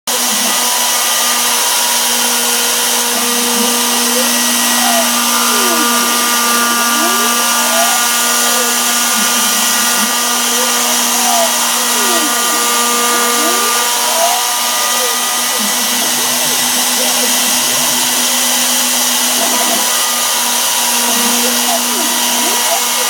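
CNC router spindle running steadily with a hiss and a constant hum, as it cuts screw pockets into MDF. Several times the axis stepper motors add whines that glide up and down in pitch as the machine speeds up and slows down along its moves.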